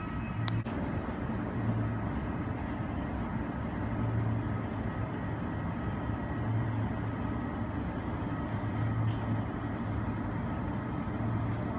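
Steady low rumble of airport apron noise, with a deep hum that swells and fades every second or two. A short click about half a second in.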